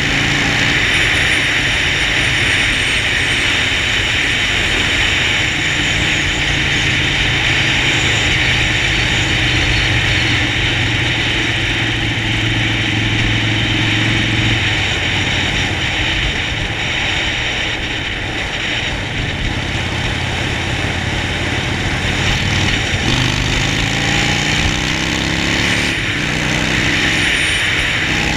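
Harley-Davidson Sportster Forty-Eight's V-twin engine under way with loud wind and road noise. The engine holds a steady note at cruising speed, eases off about halfway through, then climbs in pitch as the bike accelerates near the end.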